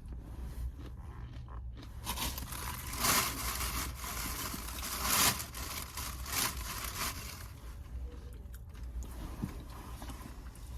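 Rustling and scraping of takeout food packaging as food is handled and dipped, with louder rustles about three and five seconds in.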